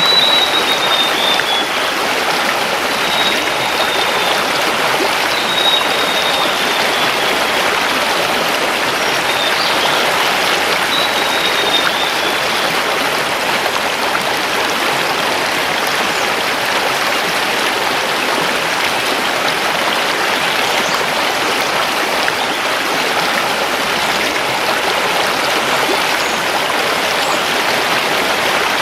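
River water rushing steadily over stones. A bird whistles a few short falling notes, four or five times in the first half.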